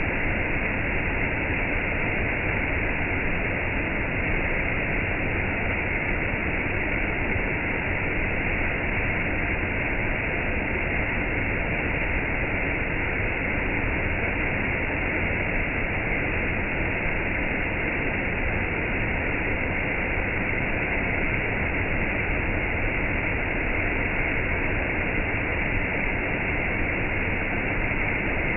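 Gentle rain and a waterfall blended into one steady rushing hiss, with no single drops or splashes standing out.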